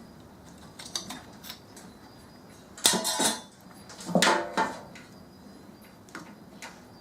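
Small metal parts from a microwave being taken apart, clattering and clinking against each other and the work surface in several short bursts. The loudest bursts come about three and four seconds in, the later one with a brief ring.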